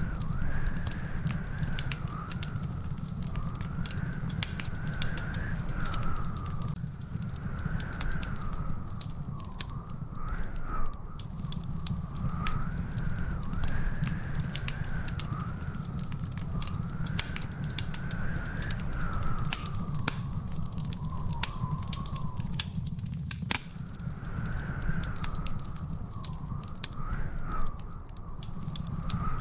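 Wood fire in a fireplace crackling, with many sharp pops over a steady low rumble. A faint wavering, whistle-like tone rises and falls behind it.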